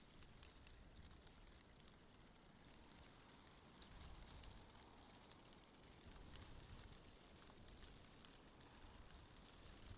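Faint ambient wind: a low rumble that swells in gusts a few times, with scattered light ticks on top.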